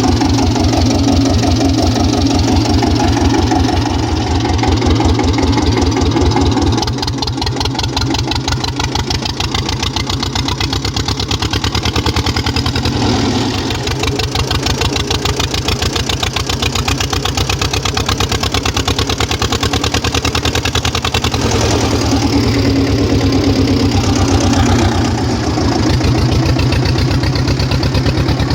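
Güldner AZK 8K tractor's diesel engine running with a steady, rhythmic chugging through its new exhaust pipe. Its note drops about seven seconds in and changes again near the end as the engine speed and load vary.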